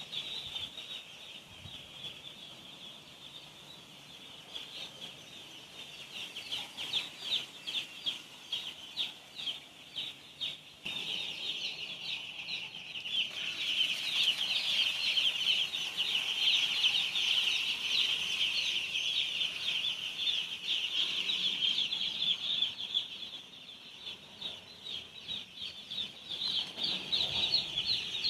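A crowd of day-old chicks peeping continuously, many short high-pitched cheeps overlapping; the peeping grows louder about halfway through, dips, then rises again near the end.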